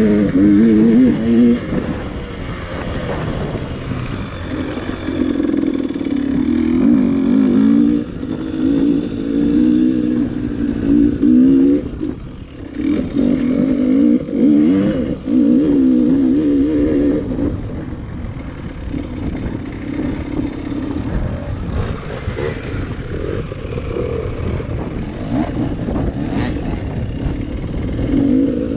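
Enduro motorcycle engine running and revving up and down over and over, its pitch wavering as the throttle opens and closes, with brief lulls partway through. A few clattering knocks come later on.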